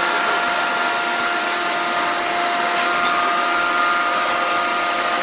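Steady industrial machinery noise, a constant rushing hum carrying a steady whine, with no hammer blows.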